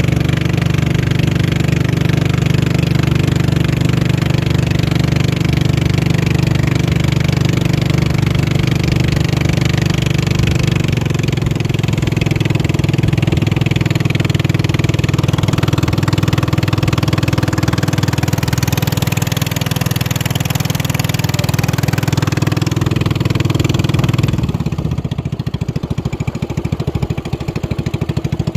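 Racing boat's engine running steadily under power, then easing off about 24 seconds in to a lower, rapidly pulsing run.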